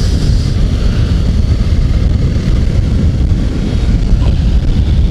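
Wind rushing over the microphone of a motorcycle riding at speed: a loud, steady rumble with no clear engine note standing out.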